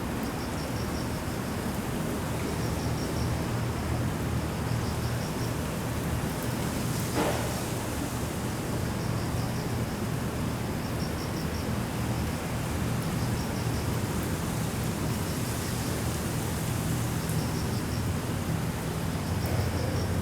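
Steady rain and wind noise, with a low drone underneath from the tugboat's engine. Short high insect chirps repeat about every two seconds, and there is a single brief click about seven seconds in.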